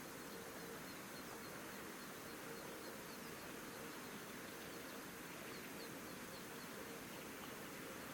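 Faint outdoor ambience with a steady hiss, and short runs of thin, high chirps repeated a few times a second, clearest about three seconds in and again near the end.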